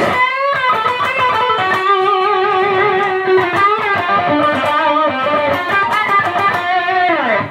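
Stratocaster electric guitar playing a riff of held notes with vibrato, ending on a downward slide.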